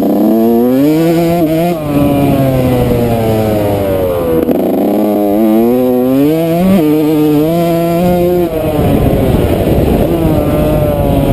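Yamaha YZ125 two-stroke motocross engine being ridden hard, its pitch climbing under throttle and dropping sharply several times as the rider shifts or backs off.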